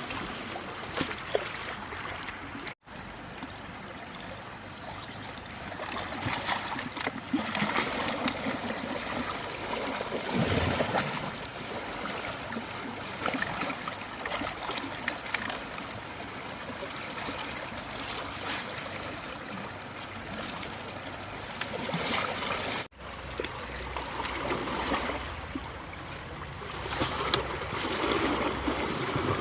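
Flowing floodwater trickling, with scattered splashes.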